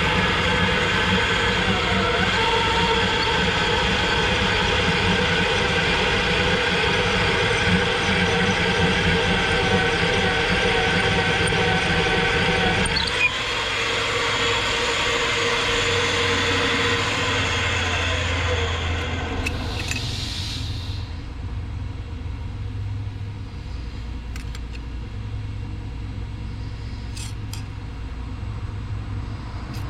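Magnetic drill motor running steadily under load, reaming a dowel pin hole in steel. About 13 seconds in there is a click and the motor winds down, falling in pitch, leaving a low hum and a few light clicks near the end.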